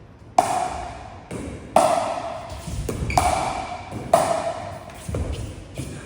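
Pickleball paddles hitting a plastic ball in a rally: a series of sharp hits with a short ring, the four loudest about a second and a half apart, with fainter taps between them.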